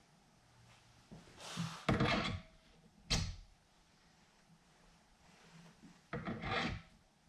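Drill press parts being handled and fitted: two short scraping, rattling spells with a single sharp knock about three seconds in, as the chuck is being fitted.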